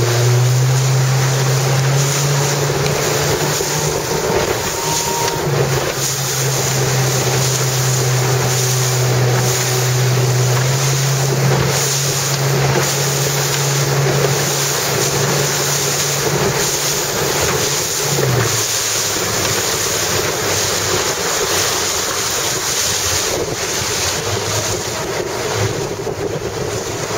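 Wind buffeting the microphone over rushing water on an open boat, with a steady low engine hum that wavers and drops away about 18 seconds in.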